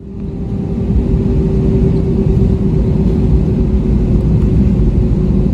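Jetstar Airbus A320 heard from inside the cabin: a steady low rumble with a constant hum above it, fading in over the first second.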